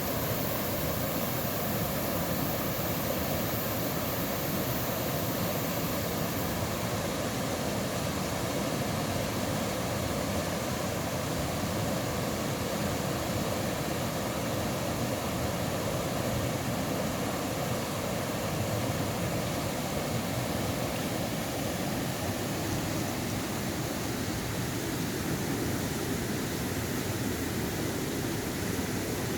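Mountain stream water rushing, a steady even wash of noise.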